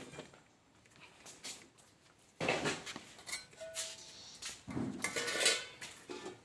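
Metal clattering and clinking in two bursts, the first starting suddenly about two seconds in and the second near five seconds, with a brief thin tone between them.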